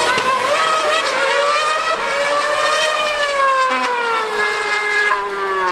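A high-revving racing engine runs continuously. Its pitch rises slightly, then falls steadily over the last couple of seconds.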